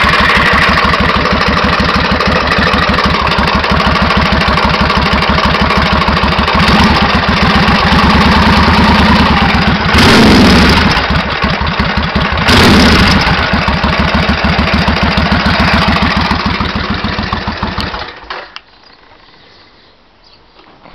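Suzuki VS1400 Intruder V-twin engine idling with a metallic knocking like hammer blows, a noise that speeds up as the revs rise; the throttle is blipped twice about halfway through, and the engine is switched off a few seconds before the end. The owner suspects a worn, slack cam chain.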